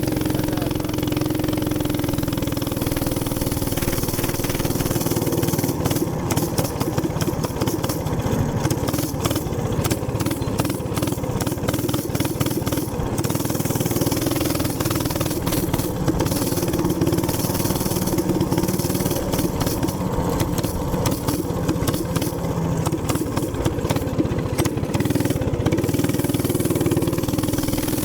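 Minibike's small single-cylinder gas engine running steadily, its pitch wavering slightly.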